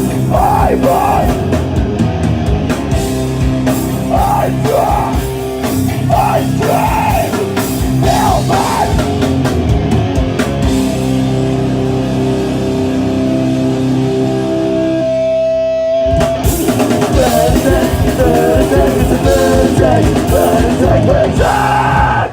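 Punk rock band playing live: distorted electric guitars, bass and drum kit with sung vocals. There are held chords past the middle and a brief break about sixteen seconds in, then the full band comes back in and the song stops abruptly at the end.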